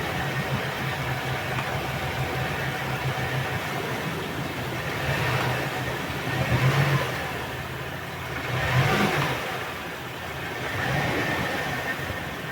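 Suzuki DF150 four-stroke outboard motor running at a steady idle, its revs rising and falling briefly three times in the second half.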